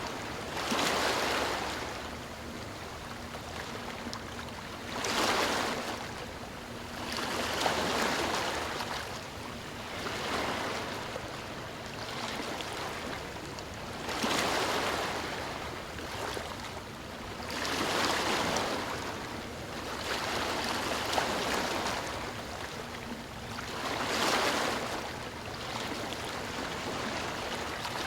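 Ocean waves breaking and washing onto the shore, a steady hiss of surf that swells with each wave every three to four seconds.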